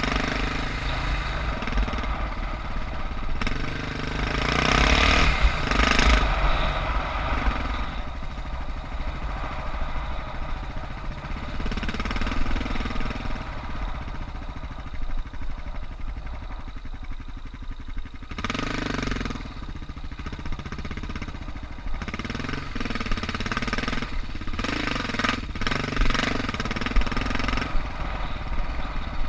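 Suzuki DR650's single-cylinder four-stroke engine running steadily, swelling louder as the throttle is opened a few times: about four to seven seconds in, around eighteen seconds, and again around twenty-five seconds.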